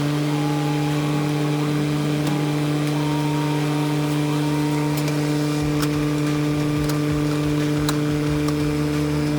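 Central air conditioner's outdoor condensing unit running with a steady hum, having just spun up to speed; the failed capacitor that left it only buzzing has been replaced. An irregular low rumble joins about halfway through.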